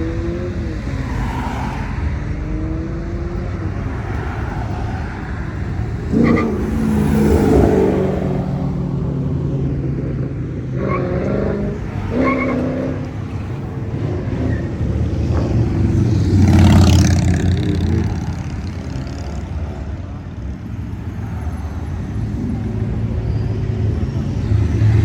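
Classic car engines running as cars cruise slowly past, with louder passes about seven and sixteen seconds in.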